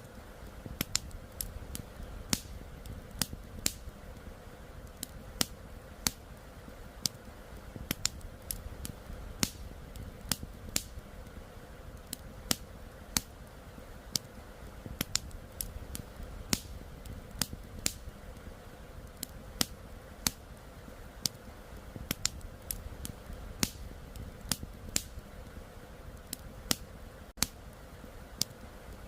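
Wood campfire crackling, with irregular sharp pops and snaps several times a second, over a steady low rush of flowing river water.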